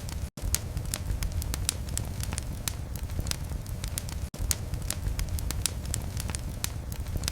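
Fire crackling in a fireplace: a steady low rumble of flames with frequent sharp crackles and pops. The sound cuts out for an instant twice.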